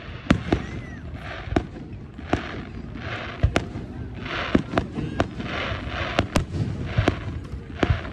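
Aerial fireworks shells bursting overhead in an irregular run of sharp bangs, about one to two a second.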